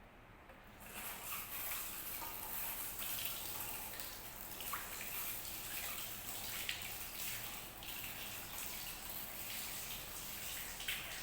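Water running from a tap or shower hose, starting about a second in as a steady hiss with small splashes and drips.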